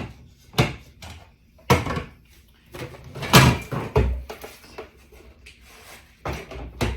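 Kitchen handling sounds: a string of sharp knocks and clunks, about half a dozen, the loudest about three and a half seconds in, like cupboard doors and containers being moved.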